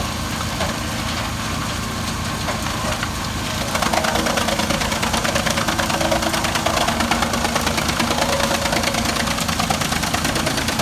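Tractor engine running hard to drive a wood chipper, a steady, rapid knocking beat that grows louder about four seconds in.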